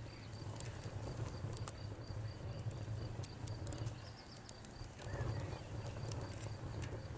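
Wood crackling and popping in a campfire over a low steady rumble, with a cricket chirping in an even rhythm.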